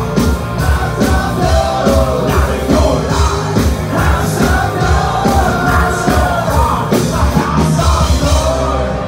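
Hard rock band playing live at full volume, with drums, distorted guitars and bass under sung and yelled vocals. The band stops right at the end.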